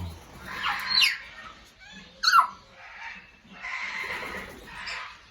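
African grey parrots calling with sharp falling whistles: one about a second in and a louder one a little after two seconds, each sliding down in pitch.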